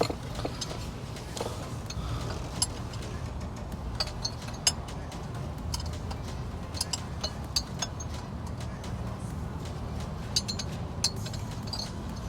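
Scattered light metallic clicks and clinks of a wrench working on the fan clutch bolts of a Toyota Tacoma, some with a short high ping, over a steady low hum.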